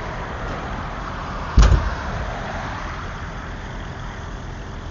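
A single sharp, loud bang about a second and a half in, over a steady outdoor rumble of roadway noise.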